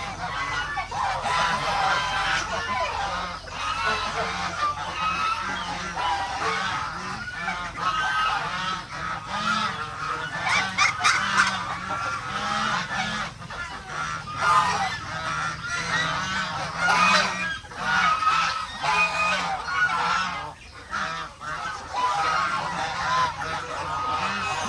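A flock of farm geese and ducks calling continuously, many honks overlapping at once, with short sharp clicks among them.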